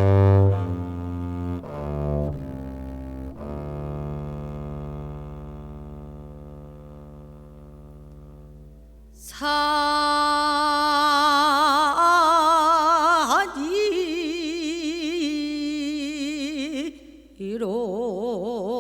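Korean traditional (gugak) music: a low bowed instrument holds long notes that slowly fade. About nine seconds in, a loud, high melodic line with heavy vibrato and sliding pitch takes over, breaks off briefly near the end, then comes back.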